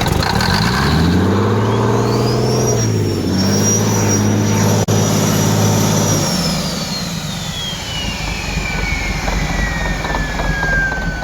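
Old International truck engine starting and revving up high with the throttle held wide open, running away on excess fuel, then cutting out about six seconds in while a high whine winds slowly down.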